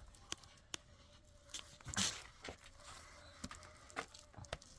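Scattered faint clicks and light knocks at irregular intervals, the loudest about two seconds in.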